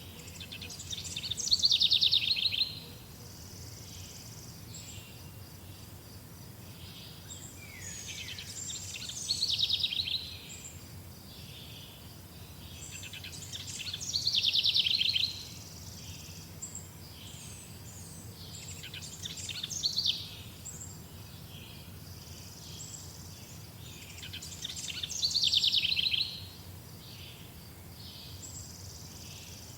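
A songbird repeating one fast trilled song phrase about every six seconds, five times, each phrase swelling louder and then stopping abruptly. Fainter chirps sit between the phrases, over a steady low background rumble.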